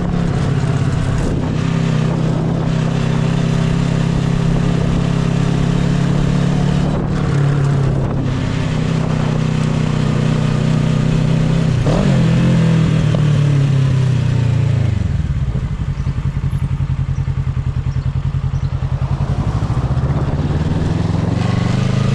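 Motorcycle engine running while riding. About two-thirds of the way in the revs drop as the bike slows, settling into a slow, even low-rpm thump, then climb again near the end.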